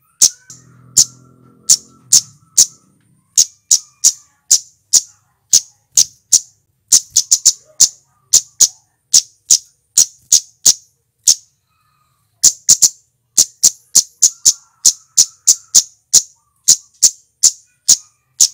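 Male flowerpecker ('cit keres') giving short, sharp, high-pitched 'cit' calls in a fast, uneven series of about two to three a second, pausing briefly about twelve seconds in. A faint low rumble sits under the first two seconds.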